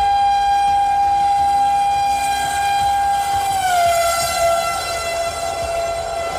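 Locomotive horn of the Mumbai Rajdhani Express sounding one long, loud blast as the train passes at high speed. The pitch drops a little about three and a half seconds in as the locomotive goes by, over the low rumble of the train.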